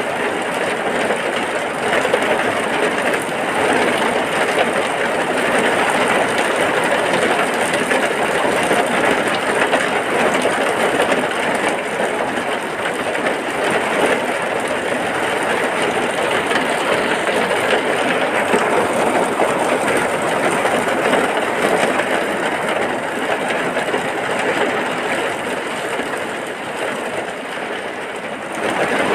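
Heavy rain falling steadily, a dense even wash of noise that eases a little just before the end.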